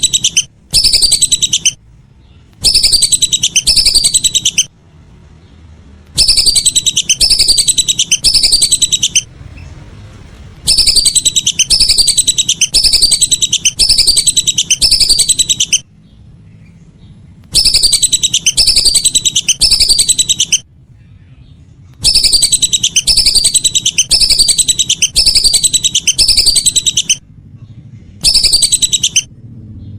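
Whistling duck (belibis) calls: loud bouts of high whistled notes, each sliding downward, about three a second, in runs of one to four seconds broken by short pauses, over a faint low hum.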